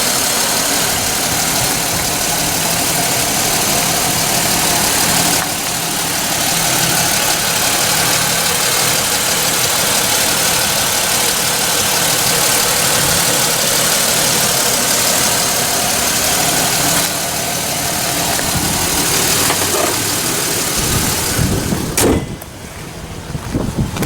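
A 2006 Chevy Impala's 3.9-litre V6 idling steadily, with a hiss over it. A sharp knock comes near the end, after which the sound drops off.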